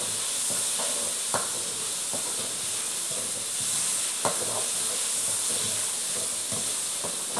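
Chili spice paste frying in a large wok, a steady sizzle, while a metal spatula stirs it, with scattered clicks and scrapes of the spatula against the pan.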